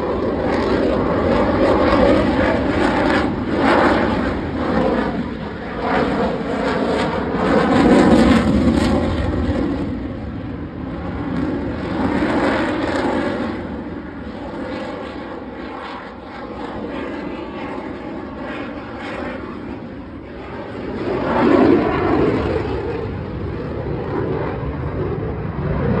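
A fighter jet's engine running during a flying display: a loud jet roar that swells and fades several times.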